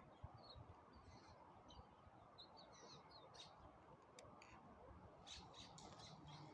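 Faint small birds chirping in short, high notes, scattered through the first few seconds, over low outdoor background noise. A few soft clicks come in the second half.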